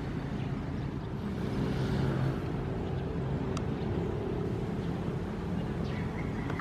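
Ocean waves: a steady low rumble of surf that swells slightly about two seconds in.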